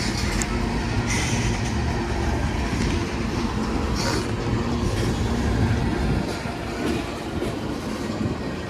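Train rolling past, with a steady rumble of wheels on the rails and a few clicks; the low rumble eases about six seconds in.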